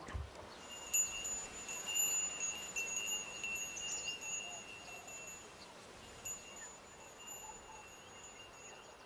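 Wind chimes ringing softly in a breeze: high, sustained metallic tones that fade after about five seconds and pick up again shortly after.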